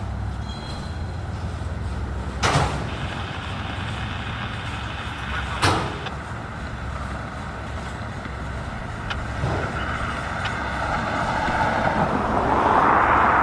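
Freight train rolling slowly past with a steady low diesel rumble. Two sharp clanks come a few seconds apart, and the rolling noise grows louder near the end.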